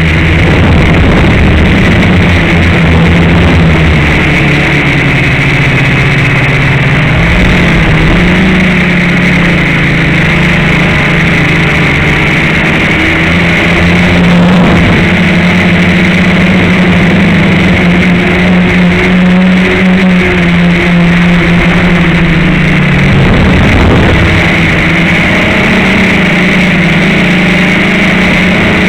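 FPV racing quadcopter's electric motors and propellers buzzing loudly close to the microphone, the pitch wandering up and down with the throttle. It dips briefly about three quarters of the way through, then climbs again.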